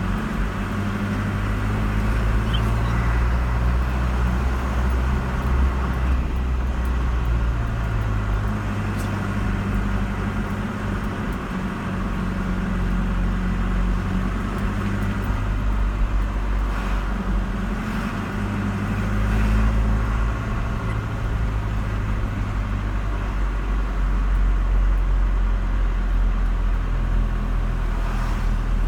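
A car being driven: steady engine and road noise, a low drone that shifts in pitch a few times as engine speed changes.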